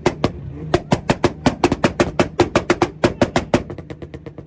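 A tuned Audi is held on its two-step launch limiter, the exhaust popping and banging in a rapid crackle of about seven bangs a second over a low engine drone.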